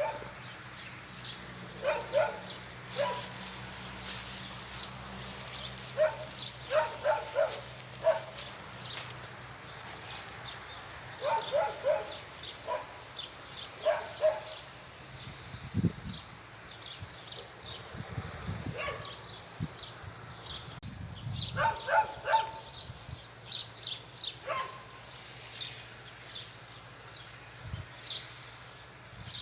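A dog barking in short runs of three or four barks, repeated every few seconds, with birds chirping in the background.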